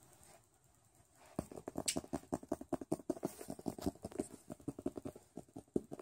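Rapid light tapping and pattering, several quick taps a second, starting about a second and a half in.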